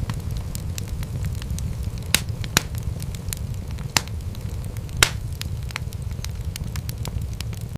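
Wood fire crackling in a fireplace: a steady low rumble of flames with frequent small crackles and a few louder pops, the loudest about five seconds in.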